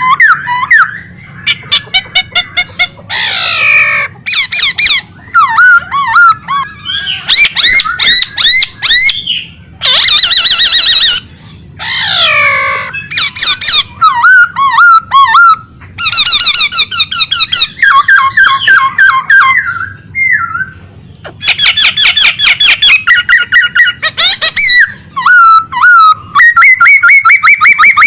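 A pet songbird singing loudly and at length: a varied string of rapid trills, whistled glides and fast repeated chirps, with short breaks between phrases.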